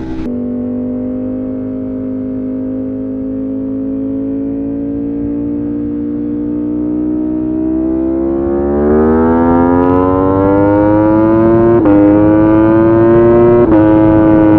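Sport motorcycle engine under hard acceleration. Its pitch drops at a gear change just after the start, climbs slowly, then rises faster, with two more quick upshifts near the end.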